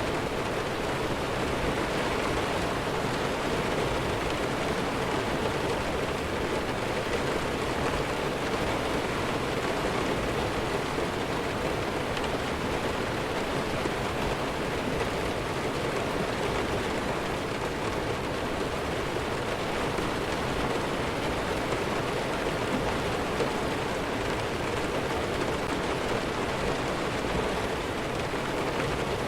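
Steady heavy rain falling, a dense, even hiss.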